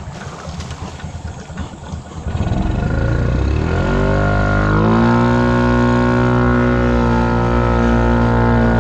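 Honda Rancher 420 ATV's single-cylinder engine running unevenly at low speed, then throttled up about two and a half seconds in; its pitch climbs for a couple of seconds and then holds steady at higher revs.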